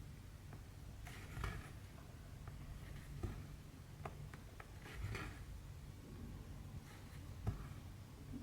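Needle and floss being drawn through cross-stitch canvas by hand: soft scratchy swishes about every two seconds with a few small clicks, over a low steady hum.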